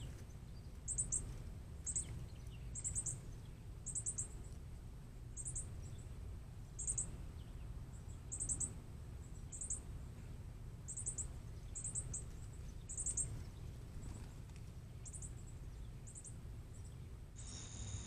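Repeated high-pitched chirps in short groups of two or three, about once a second, over a low steady hum. Near the end the chirping stops and a steady high trill takes over.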